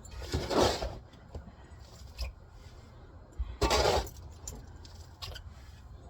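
Sawdust being scraped out of a pickup truck bed: two short rasping scrapes about three seconds apart.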